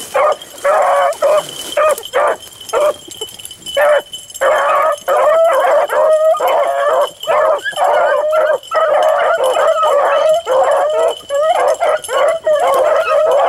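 A pack of beagles baying while running a rabbit's trail. Many voices overlap, with gaps at first, then an almost unbroken chorus from about four seconds in.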